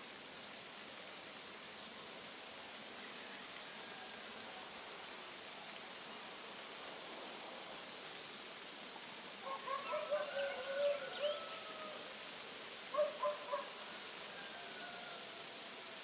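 Outdoor field ambience: a steady hiss under short, high bird chirps that come every second or two, and a cluster of lower bird calls a little past the middle.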